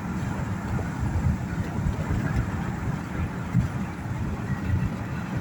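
Road noise inside a moving car's cabin: a steady low rumble from tyres and engine.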